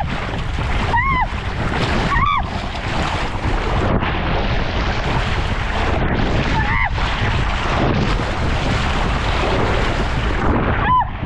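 Wind buffeting the microphone and water rushing as a rider slides down a water slide on a mat, with a few brief high-pitched cries.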